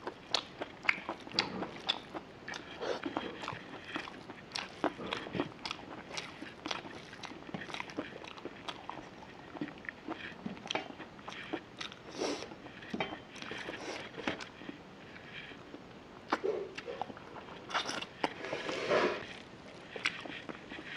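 Close-miked eating of rice and chicken curry by hand: chewing with wet mouth clicks in a steady run of short, irregular ticks. Near the end there is a longer, noisier stretch as fingers mix rice on a steel plate.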